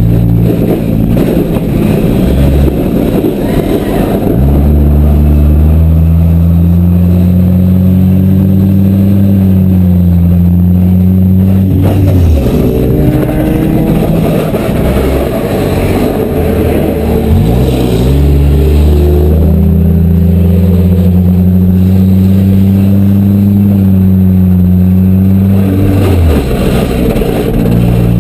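Demolition derby cars' engines running hard and revving, loud. Two long held engine notes stand out, one from about four seconds in to about twelve and another from about eighteen to twenty-six, with rougher engine noise between them.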